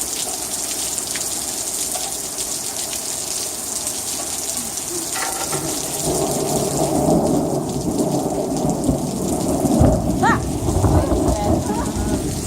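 Heavy rain falling steadily in a thunderstorm. About halfway through, a long rolling rumble of thunder builds, loudest near the end.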